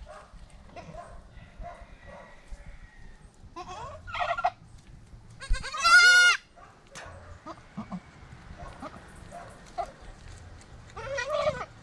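Goat bleating three times, the loudest call about six seconds in, with faint rustling and small knocks between the calls.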